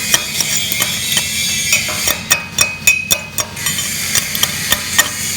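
Electric arc welding: a steady frying sizzle of the arc with many irregular sharp crackles and pops.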